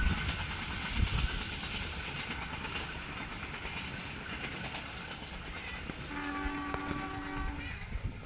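Train passing with a rumble and clatter of wheels on the rails, then a steady locomotive horn blast about six seconds in, lasting nearly two seconds.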